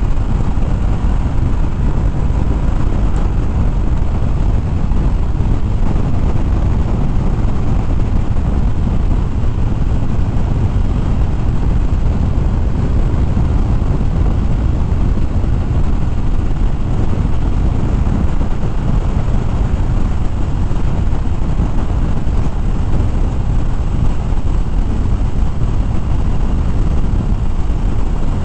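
Steady wind rush over the microphone of a motorcycle riding at speed, with a 2013 Harley-Davidson Fat Bob's V-twin engine running underneath.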